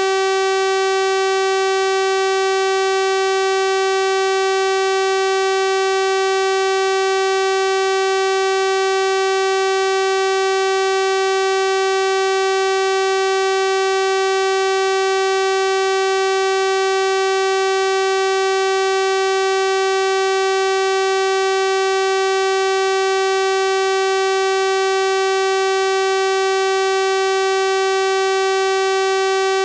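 Continuous synthesized 384 Hz sawtooth-wave tone, a steady buzzy note rich in harmonics, holding the same pitch and loudness throughout.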